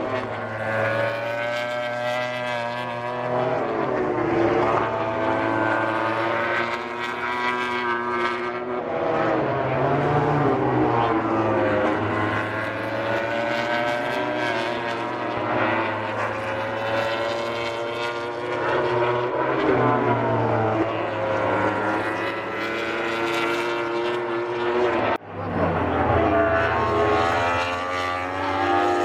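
MotoGP racing motorcycle engines at high revs. The pitch rises and falls repeatedly as the bikes accelerate, change gear and brake past the microphone, with more than one engine heard at once. There is a brief break about 25 seconds in.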